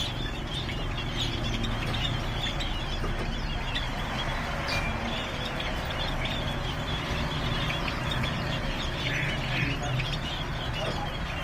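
Many small caged birds chirping in short, overlapping calls over a steady low hum.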